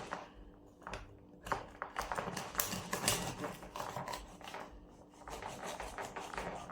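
Kitchen knife cutting raw goat meat: irregular scraping and clicks of the blade against the surface beneath, busiest in the middle, over a faint steady hum.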